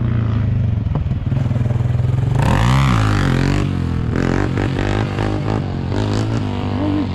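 Motorcycle engine running steadily, revved up and back down once about two and a half seconds in.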